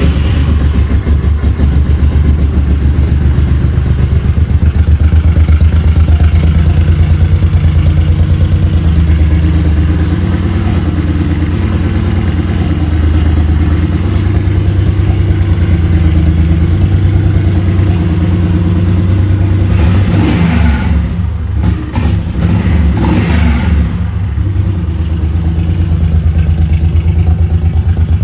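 Honda VTX 1800C's 1,795 cc liquid-cooled V-twin engine running steadily with a deep, pulsing exhaust note, with a couple of brief noisy bursts about twenty seconds in.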